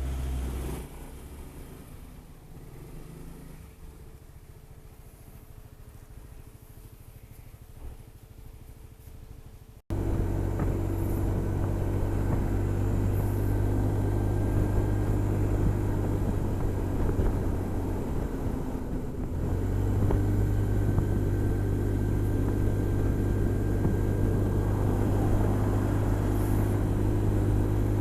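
Honda SH 300i single-cylinder scooter engine running steadily at cruising speed, with wind and road noise. The first part is quieter; about ten seconds in it jumps abruptly to a much louder, steady engine drone that holds to the end.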